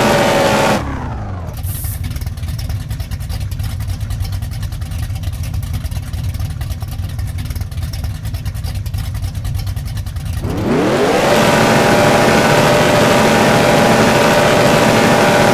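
Old Dodge Dart race car engine held at high revs, dropping to a pulsing idle under a second in, then revved smoothly back up about ten seconds later and held at high revs.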